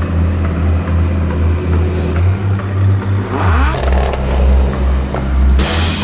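Exotic sports car engine running with a deep steady exhaust note, revving briefly about three and a half seconds in, with a sharp burst of exhaust noise near the end.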